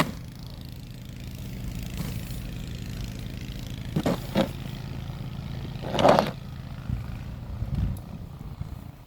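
A car engine idling steadily, with a few short scrapes of a snow shovel about four and six seconds in.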